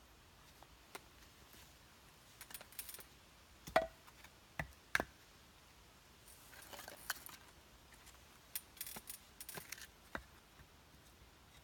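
Faint, scattered clicks and light knocks of small hard objects being handled, with two short runs of scraping rasps in the middle and near the end.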